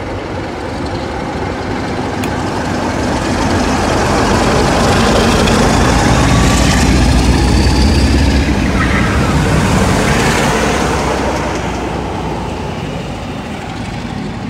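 Train passing through the station: a deep engine rumble and wheel noise build to a loud peak around the middle, then fade away.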